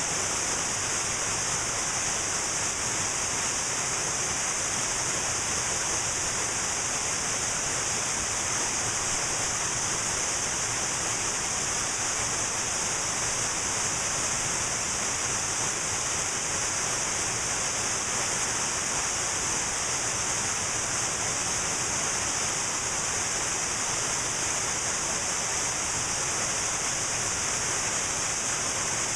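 Cascading waterfall rushing steadily, an unbroken hiss of falling water that is strongest in the high range.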